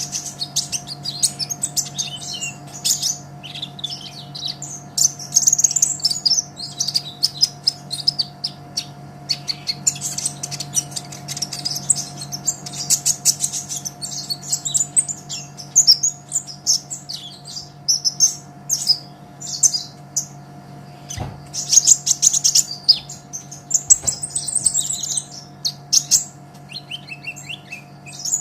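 Sunbird (kolibri ninja) singing a fast, high-pitched twittering song of rapid chirps and short trills, nearly without pause. A steady low hum runs underneath, with two faint knocks late on.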